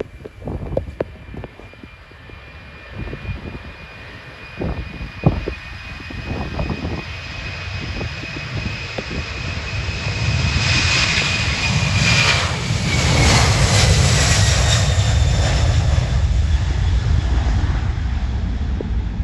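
Boeing 767 jet engines at take-off power. The noise swells to a peak about two-thirds of the way through as the airliner passes, and a high whine drops in pitch as it goes by. Wind buffets the microphone early on.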